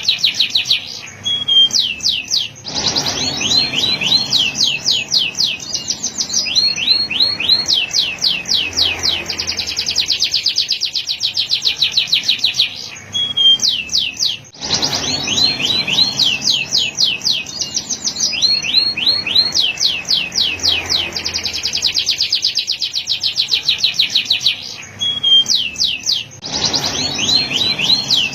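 Male canary singing a continuous song of fast, high trills and rolls: runs of rapidly repeated notes changing from one tour to the next, with brief pauses. About halfway through, the same sequence of phrases starts over.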